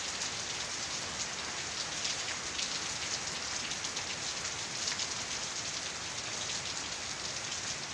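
Heavy rain falling steadily: a dense, even hiss of rain with many small drop ticks through it.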